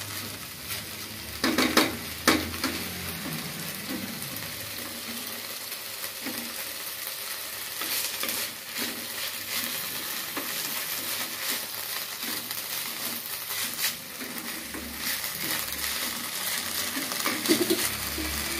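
Moringa leaves and onions sizzling in hot oil as they are sautéed in a pan, stirred with a wooden spatula that scrapes across the pan bottom a few times.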